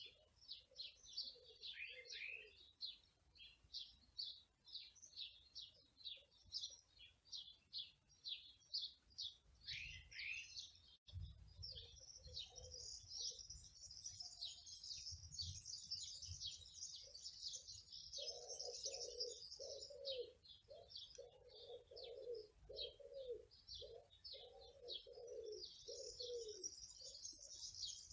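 Small birds chirping in quick, high repeated notes, thickening into a dense chorus about twelve seconds in and again near the end. In the second half a dove coos in a run of low, repeated notes.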